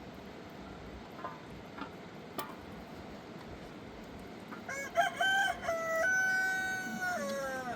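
A rooster crowing once, starting about four and a half seconds in: a long call that steps up, holds level, then drops at its end. A few faint clicks come before it over a steady background hiss.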